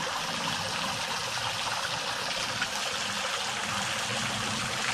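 Small waterfall splashing and trickling steadily into a creek.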